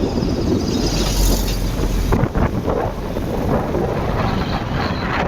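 Wind buffeting the microphone of a moving motorbike, over engine and road rumble, with a louder rush between about one and two seconds in.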